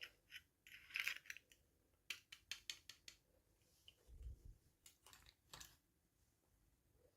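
Faint handling of small plastic toy pieces and packaging: scattered light clicks and taps, a brief crinkle about a second in, a quick run of clicks a little after two seconds, and a soft low thump about four seconds in.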